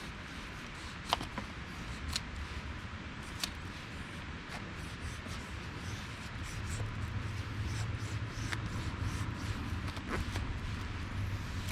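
Knife blade shaving thin curls off a wooden stick to make a feather stick: repeated scraping strokes with a few sharp clicks, over a steady background hiss.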